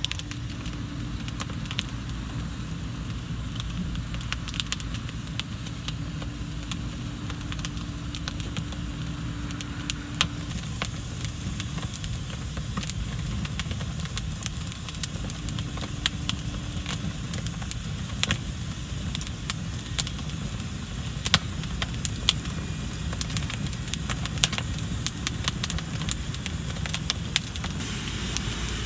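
Wood campfire burning, with sharp crackles and pops scattered irregularly throughout over a steady low rumble; a few louder pops come in the second half.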